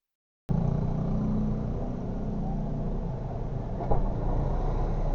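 Dump truck engine running with a steady low rumble, cutting in suddenly after a moment of silence, with a brief knock near the end.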